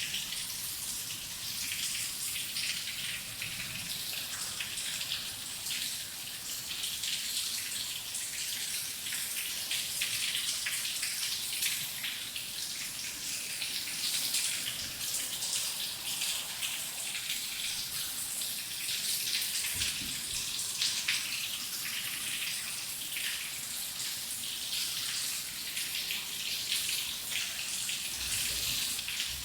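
Heavy rain falling steadily, a dense hiss of pattering drops with no let-up.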